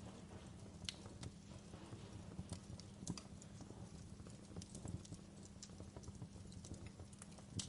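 Wood fire burning in a fireplace: a faint, steady low rumble with scattered sharp crackles and pops.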